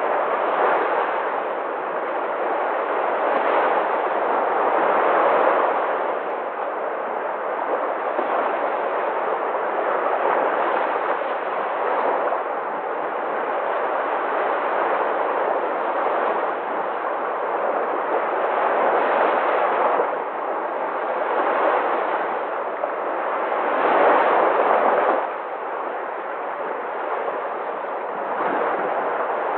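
Sea waves breaking, a continuous rush of surf that swells and eases every few seconds, with one louder surge near the end that drops off sharply.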